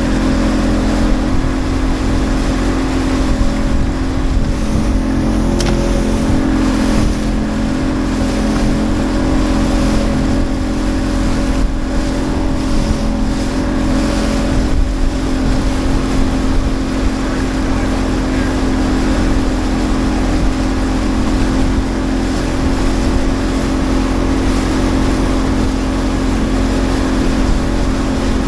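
Motorboat engine running steadily under way, a constant drone with wind and water noise over it.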